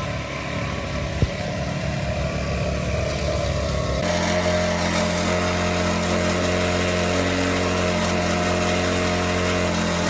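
Small two-stroke cultivator engine running, with a single click about a second in; about four seconds in its sound changes abruptly and it then runs steadily.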